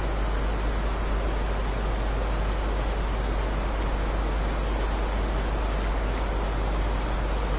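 Steady, unbroken rain: an even hiss with a deep low rumble beneath it.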